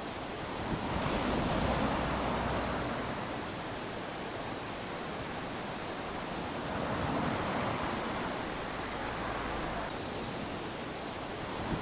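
Small ocean waves lapping onto a sandy shore: a steady wash of surf that swells as a wave runs up the sand about a second in and again about seven seconds in, with the next one starting at the end.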